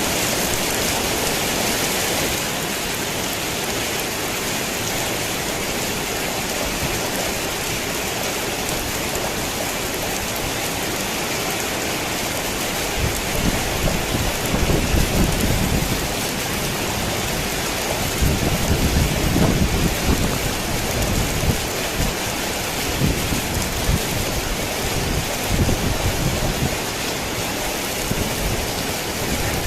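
Steady rain drumming on a tin roof. Low thunder rolls come in through the second half, in several rumbles; the strongest is a little past the middle.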